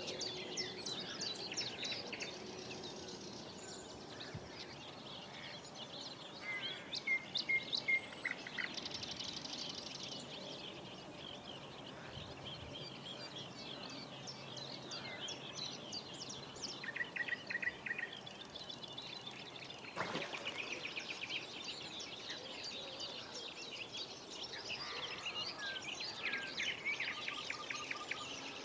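Several wild birds singing and calling at once, a mix of overlapping chirps, trills and short repeated notes, over faint steady background noise. A single brief click about twenty seconds in.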